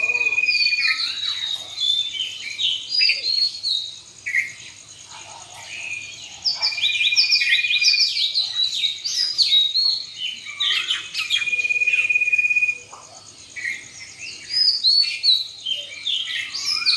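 Many small birds chirping busily, in short calls and falling notes, with a steady high insect buzz underneath. The chirping thins out twice, about four seconds in and again near three-quarters of the way through.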